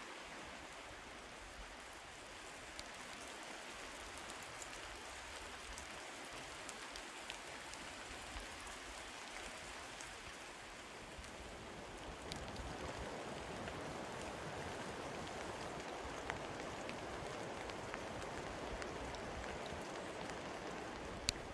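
Steady rain falling through the forest, a soft even hiss with scattered drips; it grows a little louder about halfway through. A few sharp knocks sound near the end.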